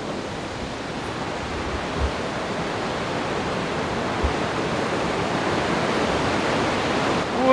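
Steady rush of a river waterfall, growing gradually louder, with two soft low thumps about two and four seconds in.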